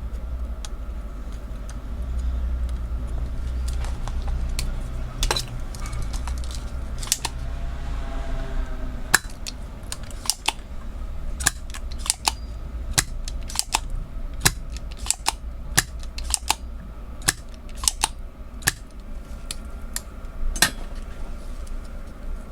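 Small metal tools clicking and tapping against a circuit board while an IC is desoldered, over a steady low hum. The clicks become frequent about nine seconds in, a few each second.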